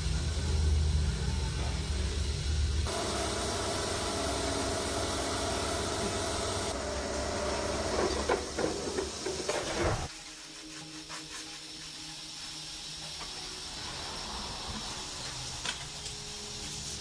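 Steady hissing and workshop noise that changes abruptly several times, with a run of sharp clanks about eight to ten seconds in.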